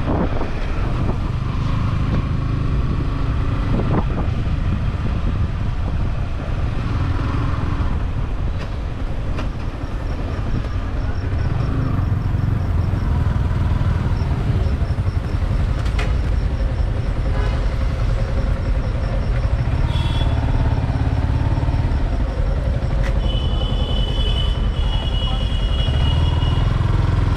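Yamaha R15 V4's single-cylinder engine running at riding speed, with a steady low rumble and road noise. A brief high tone sounds about 23 seconds in.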